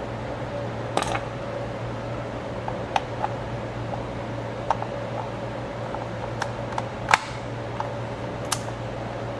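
Scattered light clicks and taps of a screwdriver and small parts on a slide projector's housing during disassembly, about eight in all, the sharpest about seven seconds in, over a steady low hum.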